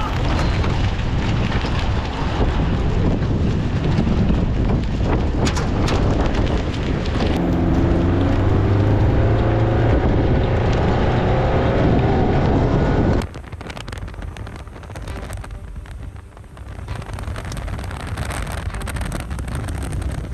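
Loud wind and roar from a nearby tornado, with heavy wind buffeting on the microphone and a few faint pitched tones in the middle. About two-thirds through it drops suddenly to a quieter rush of wind.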